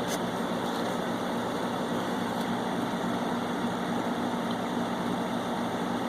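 Window air-conditioning unit running with a steady hum from its compressor and fan. It is cooling properly now that its clogged coils have been cleaned out.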